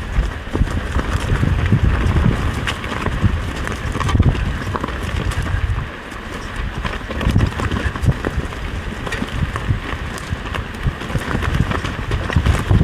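Mountain bike riding down a rough dirt trail: a steady rumble of tyres over dirt and branches, with frequent small rattles and knocks from the bike and wind noise over the top, easing briefly about halfway through.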